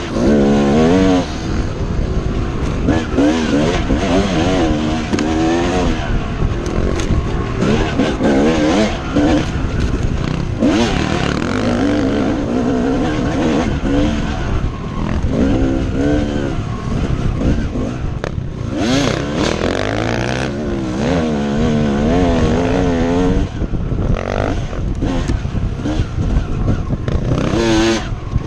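Dirt bike engine revving up and down repeatedly as the bike is ridden, its pitch rising and falling every second or so, over a steady rush of wind noise.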